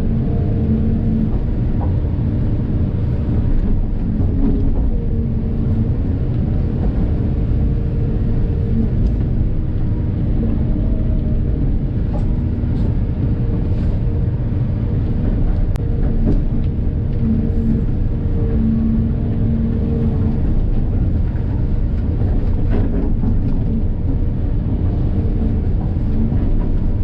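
Volvo 45-tonne crawler excavator running at work: a steady low diesel rumble with a hum that comes and goes as the hydraulics are worked.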